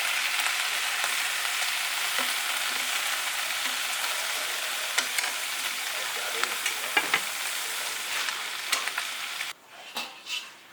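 Food sizzling in a hot pan while being stirred, with sharp clicks of a utensil against the pan. The sizzle cuts off suddenly near the end, followed by two soft knocks.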